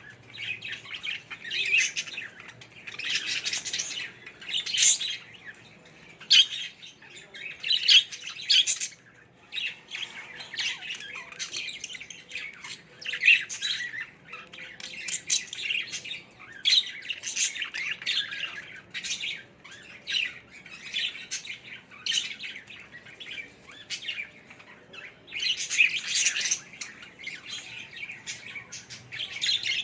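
Budgerigars chirping and chattering in quick, irregular bursts of high-pitched calls and squawks.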